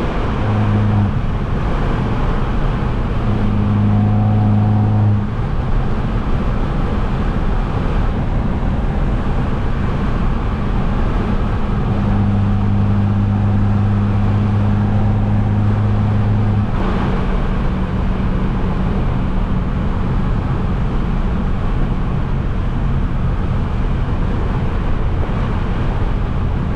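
Straight-piped, turbocharged Mercedes-Benz C250 cruising steadily. Its low exhaust drone swells for a few seconds at a time over continuous road and tyre noise.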